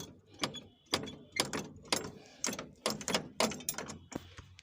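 A series of sharp mechanical clicks and knocks, about two to three a second at uneven spacing, as of metal parts being handled or worked.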